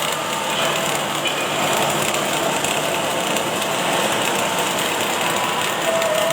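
Automatic arc-welding machine at work in a factory: a steady, even noise with no pauses.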